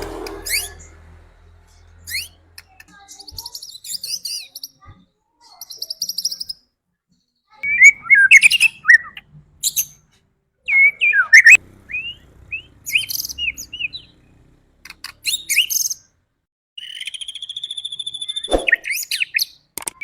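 White-rumped shama (murai batu) singing: separate phrases of clear whistles and quick buzzy notes with short silent gaps between them, and a longer even trill near the end.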